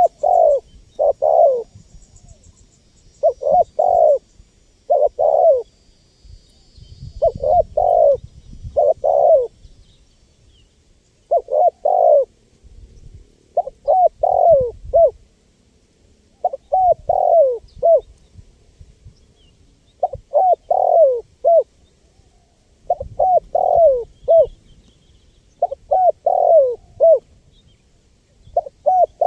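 Spotted dove (tekukur) cooing its song over and over: a phrase of a few coo notes, the last one short, repeated about every two to three seconds.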